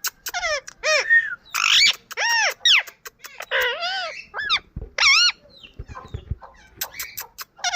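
Parrot calling in a quick run of about a dozen short, high-pitched whistled calls and squawks, many rising and then falling in pitch.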